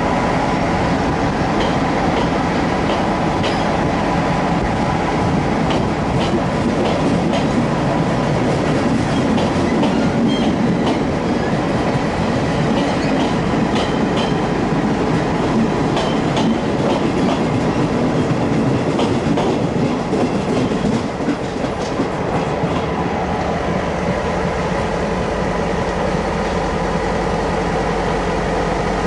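Passenger train coaches rolling past a station platform, wheels clicking regularly over rail joints, with a faint steady whine. About two-thirds of the way through the sound changes to the steady running of a Taiwan Railways R100-class diesel locomotive hauling a freight train.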